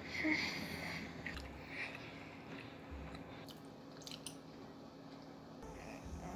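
Chewing and munching on macaroni and cheese: irregular wet, squishy mouth sounds with a few short clicks, strongest about a second in.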